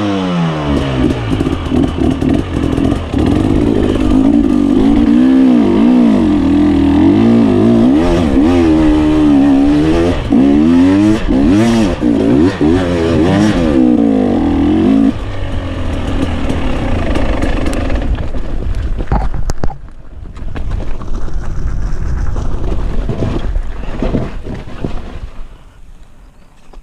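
GAS GAS 300 enduro motorcycle engine revving up and down again and again under riding load for about fifteen seconds, then running more evenly at lower revs. A sharp knock sounds near the twenty-second mark, after which the engine is quieter and fades near the end.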